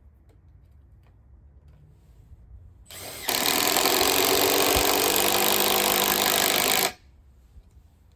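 Makita XDT08 cordless impact driver hammering a 3.5-inch screw into wood. It starts about three seconds in with a short softer spin-up, goes into full impacting for about four seconds, then stops abruptly.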